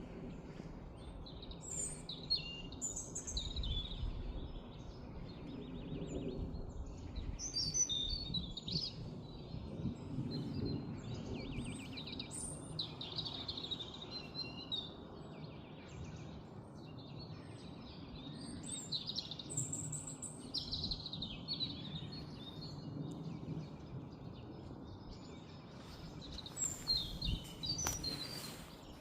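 Several wild birds singing and calling in a forest, with short, varied overlapping phrases and chirps, over a steady low background rumble.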